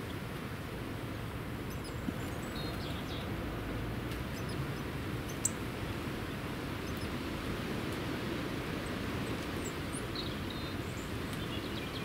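Faint, short, high chirps of small birds, a few about three seconds in and a few more near the end, over a steady outdoor hiss and low rumble, with one small sharp click in the middle.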